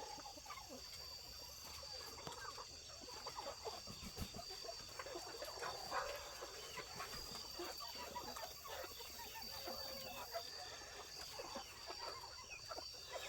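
A flock of roosting chickens clucking softly, many short scattered calls, over a steady high-pitched drone.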